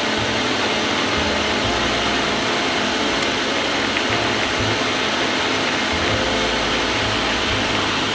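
Blender running steadily, blending a thick smoothie of frozen berries, avocado and frozen vegetables.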